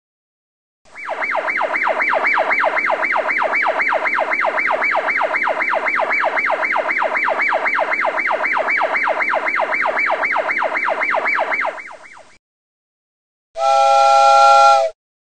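Electronic emergency-vehicle siren in a fast yelp, its pitch sweeping up and down about three to four times a second for about eleven seconds, then cutting off. Near the end, a short steady pitched tone sounds for about a second and a half.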